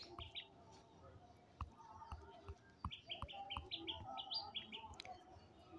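Faint bird chirping: many short, high chirps, more frequent in the second half, with a few soft clicks.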